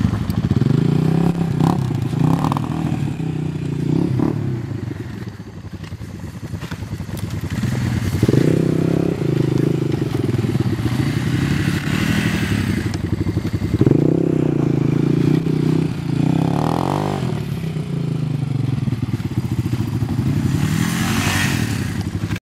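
Honda ATV engine revving in repeated surges, rising sharply about 8 and 14 seconds in and easing off between, as the quad works at climbing a snow bank.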